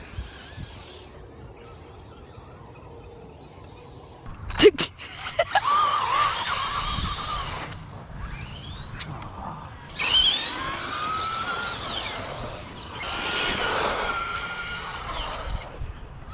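Electric RC cars driving hard: two sharp knocks about four and a half seconds in, then three spells of motor whine that rises and falls in pitch with the throttle, mixed with tyre and ground noise.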